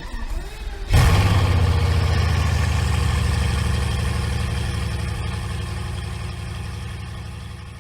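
ZAZ Tavria pickup's four-cylinder petrol engine being started: a second of uneven cranking, then it catches about a second in and runs, its level slowly easing off as it settles toward idle.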